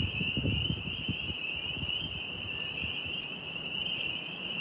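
A steady chorus of night insects, a continuous high trill, with gusts of wind buffeting the microphone as an uneven low rumble.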